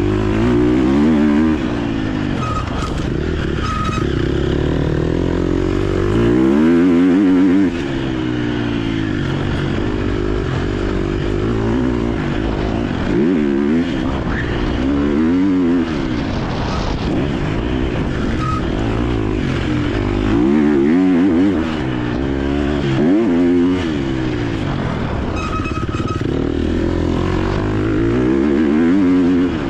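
KTM 250 SX-F single-cylinder four-stroke motocross bike engine revving hard, its pitch climbing and dropping back again and again as the rider accelerates, shifts and rolls off around the track.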